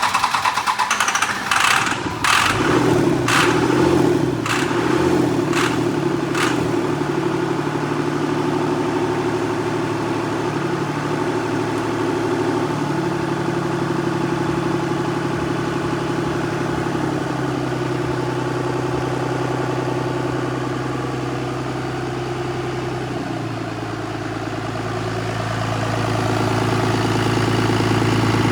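Freshly rebuilt 24-valve Cummins 5.9 L inline-six diesel running on its first start. It fires with several sharp cracks over the first six seconds, then settles into a steady idle. The note shifts slightly about 23 seconds in and grows a little louder near the end.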